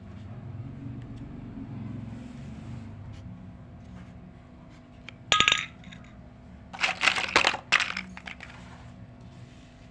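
Small hard toy kitchen pieces being handled, over a faint low hum. There is one ringing clink a little past five seconds in, then a quick run of clattering clinks around seven seconds.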